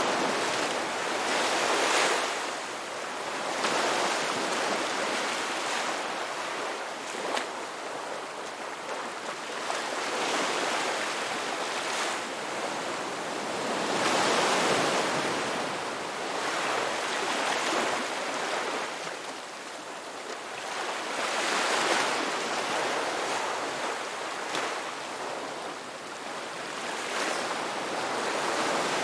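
Ocean waves breaking and washing onto a shore, a steady rush of surf that swells and fades every few seconds.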